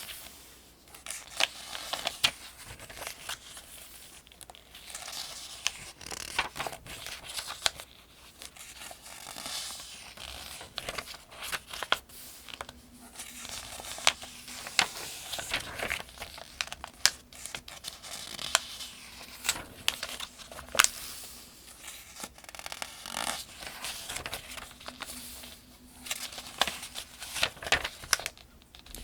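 Pages of a paperback Farmers' Almanac being turned one after another: repeated crisp rustles and crinkles of thin paper, with sharp little snaps as each page flips.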